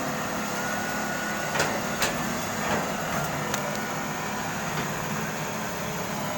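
Caterpillar 320 hydraulic excavator's diesel engine running steadily, with a few sharp knocks from the machine in the first half.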